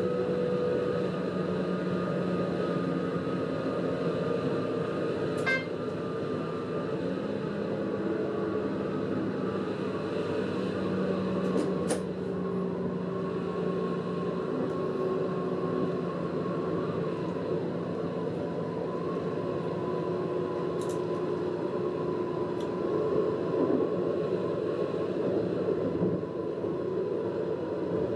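A diesel railcar running steadily along the line, heard from the driver's cab: an even engine-and-running drone with several held tones, and a few faint clicks along the way.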